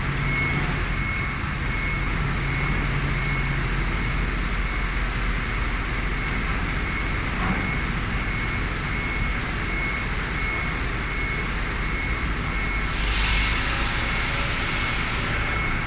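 A vehicle engine running steadily, with a thin constant high whine over it. A low hum drops out about four seconds in, and a rush of noise swells and fades about 13 seconds in.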